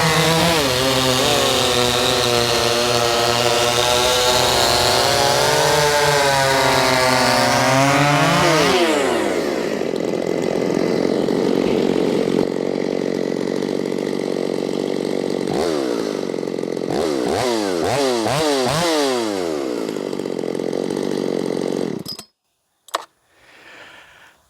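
Ported Shindaiwa 757 chainsaw running at full throttle through a cut with its stock chain, digging in. About nine seconds in it falls back to idle, and a few throttle blips follow. The engine cuts off shortly before the end.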